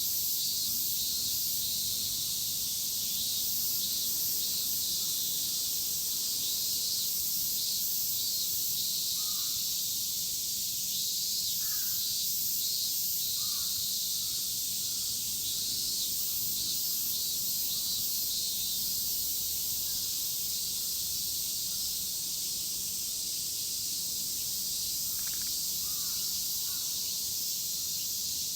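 Chorus of cicadas droning steadily in a high, pulsing hiss. A few short, faint bird calls rise above it about nine to fourteen seconds in and again near the end.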